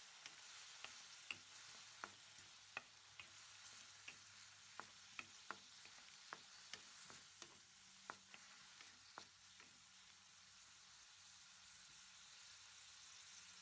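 Diced carrots, corn and peas sizzling faintly as they fry in a metal pan, with irregular sharp clicks of the stirring utensil against the pan. The clicks stop about ten seconds in, leaving only the quiet sizzle.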